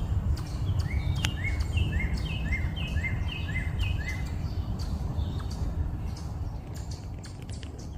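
A songbird chirping one repeated note about seven times, roughly two a second, in a run of about three seconds, over a steady low rumble of background noise. A few faint chirps and clicks follow.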